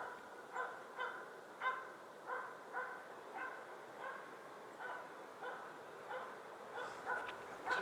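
Hunting dog barking steadily at a bird it has treed, short barks at an even pace of a little under two a second. The steady barking means the bird is holding in the tree.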